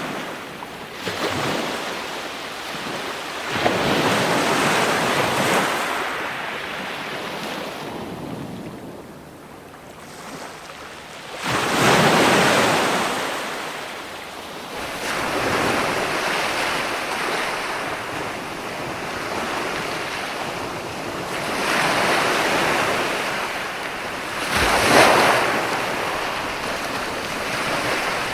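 Ocean waves breaking and washing up the shore, surging every few seconds with a lull in between, with one loud break about halfway through and another near the end.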